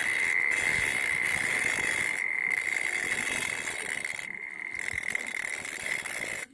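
A small homemade grinder, a DVD-player motor spinning an angle-grinder cutting disc, runs with a steady high whine while the disc grinds a strip of iron. The grinding makes a harsh hissing scrape that breaks off briefly twice as contact is lost.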